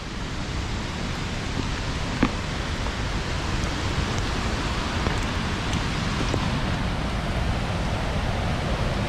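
Waterfall running high, a steady even roar of falling water, with a faint tick about two seconds in.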